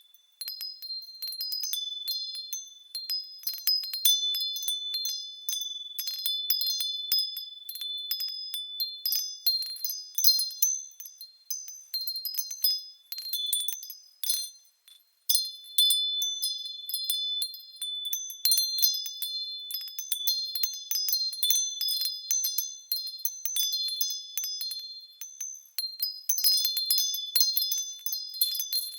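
Japanese furin wind chimes ringing in the breeze: quick, irregular strikes with high tones that ring on between them, falling quiet briefly just after the start and again about fifteen seconds in.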